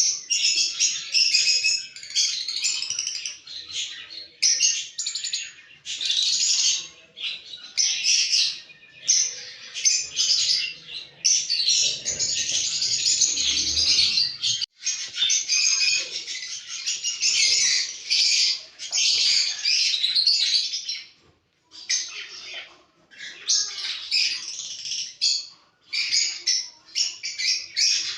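Pet lovebirds chattering and chirping continuously in rapid, high-pitched bouts, with a few short breaks in the last third.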